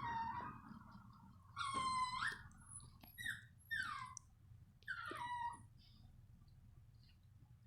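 A puppy whining: about five short, high-pitched whines in the first six seconds, most falling in pitch, then quiet.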